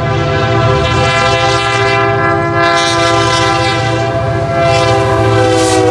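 Train air horn blowing one long, loud chord over the rumble of a train, the chord dipping slightly in pitch near the end as the train passes.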